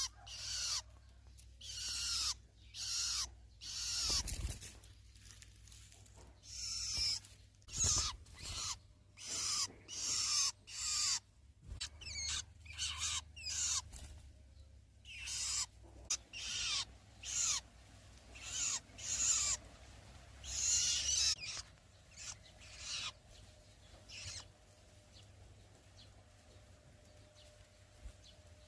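Nestling birds begging for food with a run of raspy, hissing calls about once a second, dying away about three-quarters of the way through.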